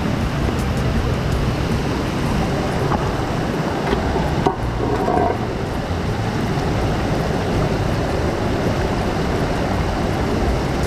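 Steady rushing of a waterfall and its stream, an even roar of falling water, with a brief knock about four and a half seconds in.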